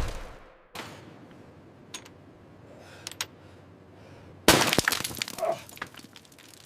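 Glass breaking: a sudden crash about four and a half seconds in, followed by a scatter of small sharp clinks and crackles dying away over about a second and a half, after a few faint isolated clicks.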